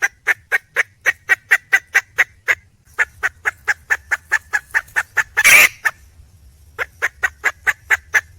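Red junglefowl hen calling: runs of short, rapid clucks, about four a second, each run lasting two to three seconds, with one louder, harsher call about five and a half seconds in.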